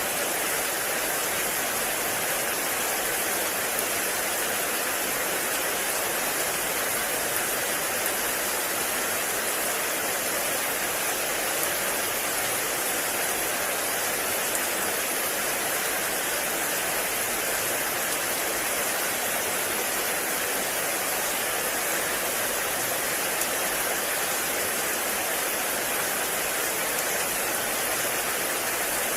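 Heavy rain falling in a forest, a steady even hiss of downpour without pause.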